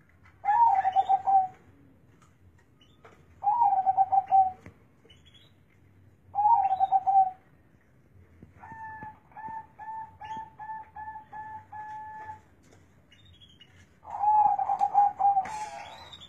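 Zebra dove (perkutut) cooing: four loud, rolling cooing phrases about a second each, with a quieter run of about eight short, evenly spaced coos in the middle.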